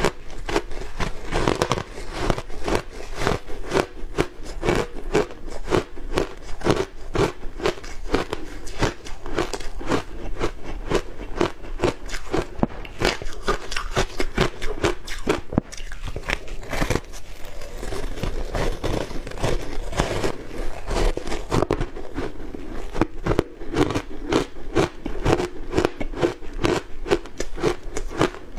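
Matcha-powder-coated ice being bitten and chewed close to the microphone: a continuous run of rapid, crisp crunches.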